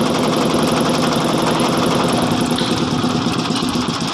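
Boat engine running steadily with an even, rapid chugging.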